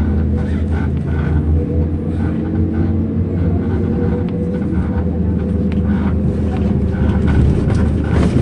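MAZ-105 articulated city bus driving, heard from inside the passenger cabin: a steady engine drone mixed with road noise.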